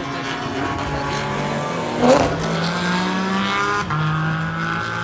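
Race car engine accelerating hard, its pitch climbing, then dropping for a gear change a little under four seconds in before climbing again. A brief louder burst about two seconds in, like another car passing close by.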